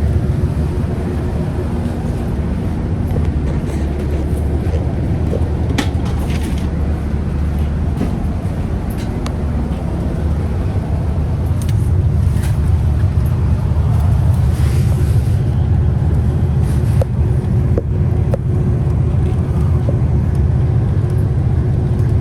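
Scania Citywide CK320UB city bus under way: a steady low engine and drivetrain rumble that grows a little louder about halfway through, with scattered light rattles and clicks.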